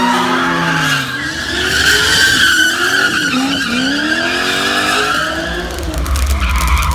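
Car engine revving up and down while its tyres squeal, as in a burnout or drift at a car meet. A low rumble comes in near the end.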